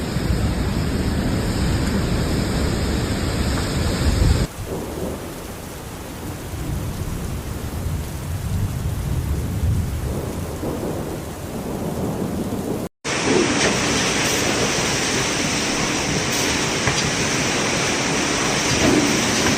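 Storm noise: heavy rain with a deep rumble, changing abruptly twice, about four and a half and thirteen seconds in.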